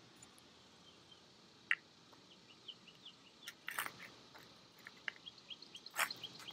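Faint, short high chirps of small birds repeating irregularly, with a few sharp crackling clicks about two, four and six seconds in.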